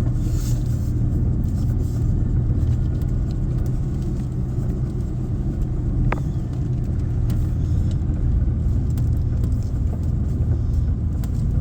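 Truck engine running with a steady low rumble while the truck is driven through turns. A single short click sounds about six seconds in.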